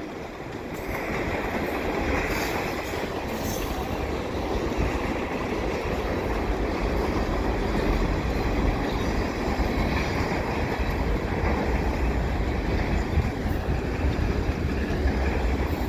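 Freight cars of a mixed freight train rolling past: a steady rumble of steel wheels on the rails, louder from about a second in.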